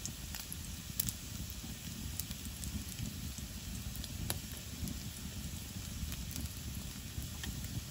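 Sliced sausage frying in a titanium fry pan on a wood stove: a steady sizzle with a low rumble underneath and scattered sharp pops of spitting fat.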